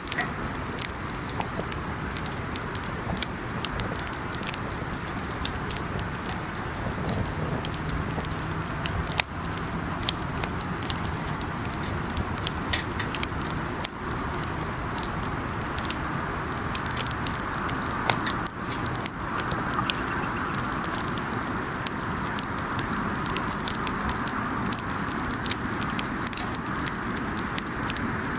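Wood campfire crackling, with many irregular sharp pops and snaps over a steady hiss of burning.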